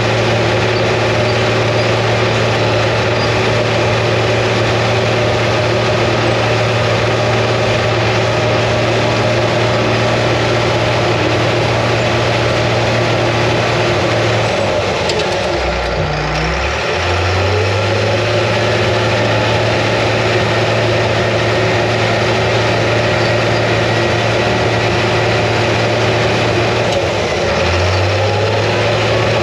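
International TD15C crawler dozer's DT466 six-cylinder diesel engine running steadily under work. About halfway through the engine note dips and shifts briefly, then settles again, and it shifts once more near the end.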